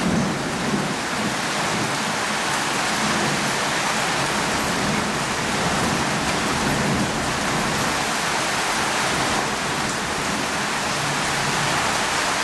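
Steady rain falling, an even hiss, with a low rumble of thunder underneath that swells and fades several times.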